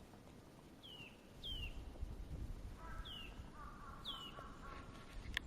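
Small birds calling in winter woodland: four short, high, downward-slurred calls, and a lower wavering call in the middle, over a low rumble of wind or outdoor noise. A sharp click comes near the end.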